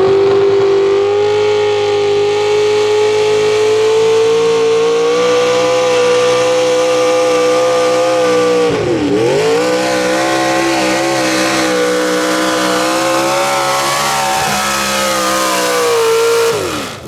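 Pro Stock mini truck engine at full throttle during a pull, held at high revs and climbing slightly. About halfway the revs dip sharply and come straight back. Near the end the throttle is let off and the revs fall away.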